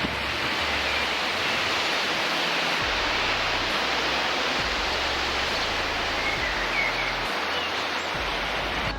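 Steady rushing of falling water, an even continuous roar, with a few faint high chirps about six to seven seconds in.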